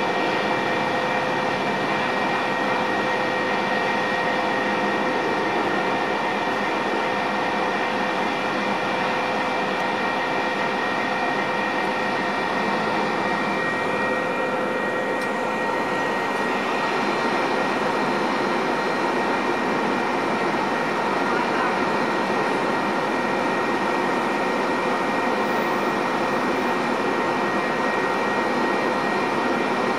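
Metra double-deck commuter train at the platform, giving a steady mechanical hum with several held tones. One of the lower tones drops out about halfway through, and a higher one comes in soon after.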